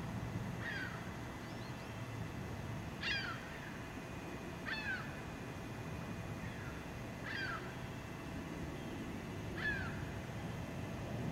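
A bird calling over and over: short calls that each slide downward in pitch, about five louder ones roughly two seconds apart with fainter calls between, over a steady low background rumble.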